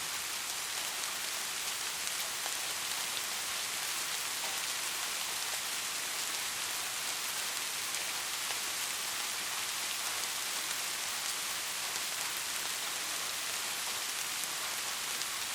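Steady rain, a dense even hiss with faint scattered drop ticks.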